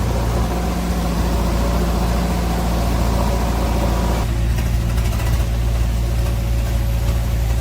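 Diesel engine of heavy farm or earthmoving machinery running steadily. Its tone changes abruptly about four seconds in.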